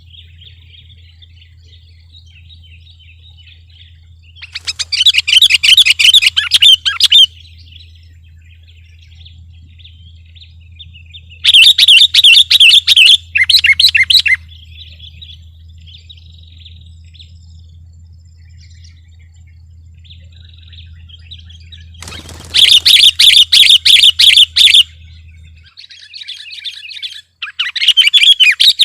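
Sooty-headed bulbul (kutilang) singing in full, lively song: four loud bursts of rapid chattering notes, each two to three seconds long, with softer chirps between them. A low steady hum runs underneath and stops a few seconds before the end.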